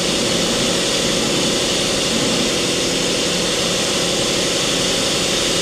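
Mori Seiki MT2000SZ CNC mill-turn center running: a steady mechanical hum and whir with a few held tones, as the lower turret axes are traversed.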